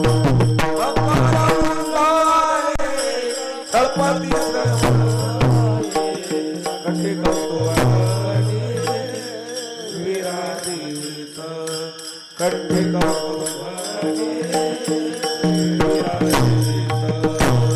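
Marathi devotional kirtan music: a wavering sung or played melody over a held drone, with a hand drum beating low strokes and small cymbals clashing throughout. The low drum strokes drop out for a few seconds near the middle.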